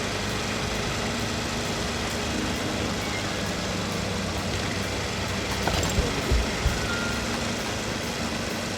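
1988 Kawasaki Eliminator 250SE motorcycle running: a steady mix of engine and road noise, with a few short low thumps about six seconds in.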